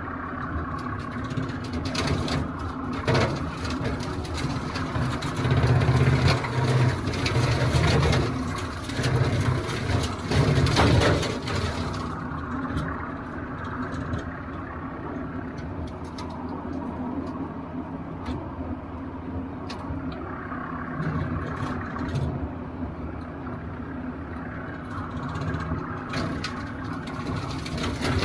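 TYM compact tractor's diesel engine running under work. It gets louder several times in the first half, with sharp cracks among it, then settles to a steadier run.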